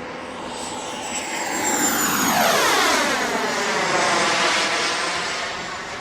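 Turbine engine of an RC model jet running with a high whine as the jet flies past, growing louder to a peak in the middle and then fading, the whine dropping slightly in pitch as it goes by.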